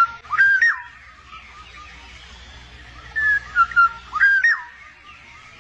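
Black-naped oriole giving fluty, whistled calls with notes that glide up and down: a short phrase near the start and a longer run of several notes past the middle.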